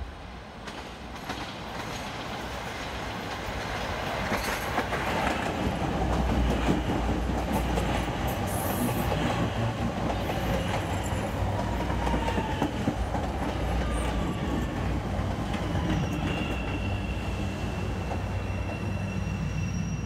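CTA Red Line elevated train approaching and running past close by, its wheels clattering over the rails with a heavy rumble. It grows louder over the first six seconds, stays loud as the cars go past, and a thin high whine sounds over the last few seconds.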